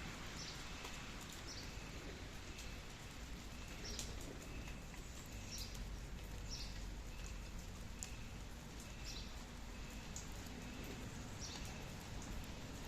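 Steady rain falling, with a bird chirping in short repeated calls about once a second.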